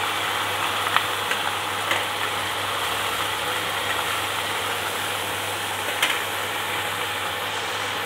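Pieces of already-braised chicken adobo frying in a pan, a steady sizzle with a few sharp ticks, over a steady low hum. The chicken is being fried briefly to dry it off after simmering.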